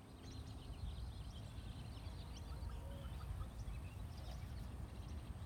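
Small birds chirping in many short, high calls over a steady low rumbling background noise.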